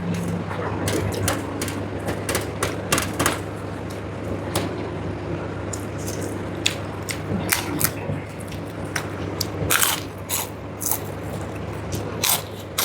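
Close-miked eating: a person chewing, with irregular sharp clicks and crunches from the mouth and food, over a steady low hum.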